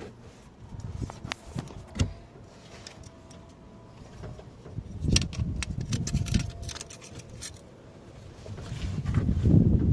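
Metal hand tools clinking and knocking while nuts are worked on during a starter motor replacement, with one sharp knock about two seconds in and a denser patch of clicks and handling noise later. A rumbling, rustling handling noise builds near the end and is the loudest part.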